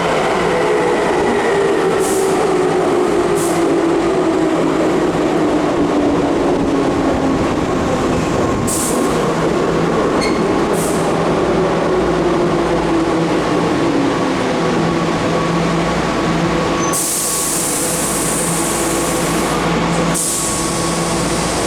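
Keihan 2200 series electric train braking into a station: the whine of its traction motors and gears slides steadily down in pitch as it slows to a stop. A few short hisses come along the way, and near the end loud bursts of air hiss from the train's pneumatics follow.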